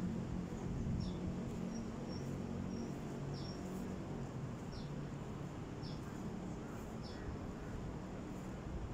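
A small bird calling in short, high, falling chirps, repeated about once a second, over a steady low outdoor background hum.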